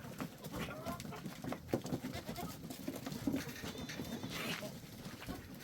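Goats bleating, with short wavering calls about a second in and again near the end.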